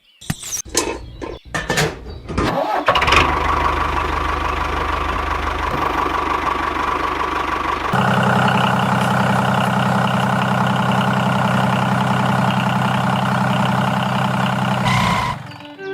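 Mini diesel engine starting: a few short bursts in the first three seconds, then it catches and runs steadily. About eight seconds in its note changes to a different steady run, which cuts off near the end.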